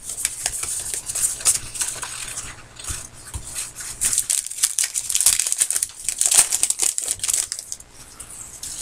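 Card-pack wrappers crinkling and rustling as trading-card packs are opened and handled: a dense run of small crackles.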